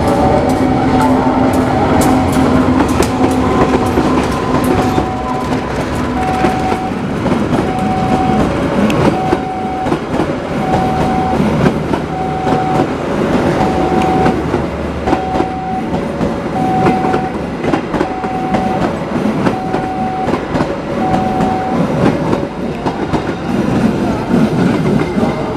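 A train moving through the station, its wheels clacking over rail joints, with a diesel engine's steady drone in the first few seconds. A repeating beep sounds about once every second and a half through most of the stretch.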